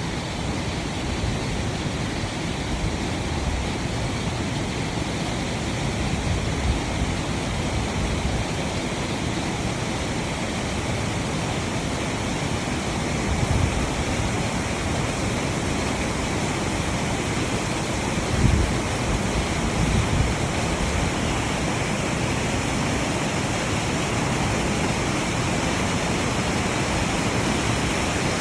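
Steady rush of fast-flowing mountain water, a continuous even roar of creek or falls. A few brief low thumps come about halfway through and again near two-thirds of the way.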